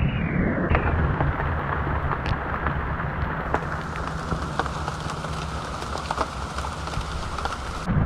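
Steady rain, with many scattered sharp taps of drops and a constant low rumble underneath.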